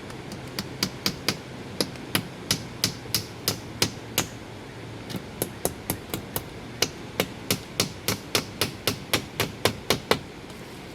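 Hammering in steady strokes, about three a second, with a short break of about a second near the middle. Under it is a steady hiss of rain.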